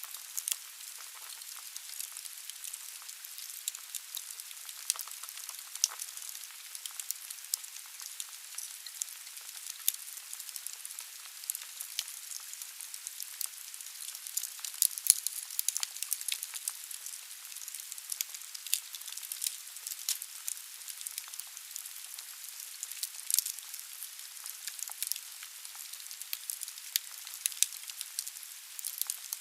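Wood fire burning in a fireplace: a steady hiss with frequent irregular sharp crackles and pops from the burning logs.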